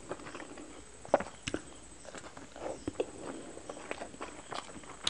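Close-miked chewing of a chutney-dipped steamed chicken momo: soft wet mouth sounds with scattered sharp clicks and smacks, the loudest about a second in.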